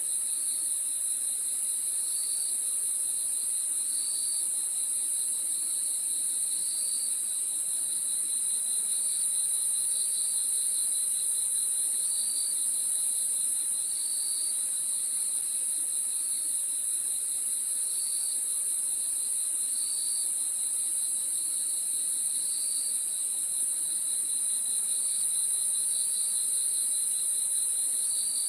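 Crickets chirping in a dense chorus at night: a high, steady trill with a lower pulsing chirp that repeats every second or so.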